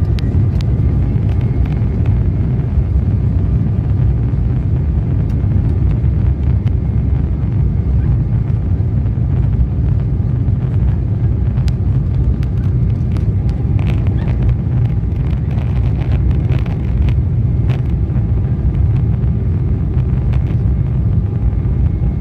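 Jet airliner taking off: a loud, steady low rumble of engines and roll with a faint high whine over it, and scattered light clicks in the middle stretch.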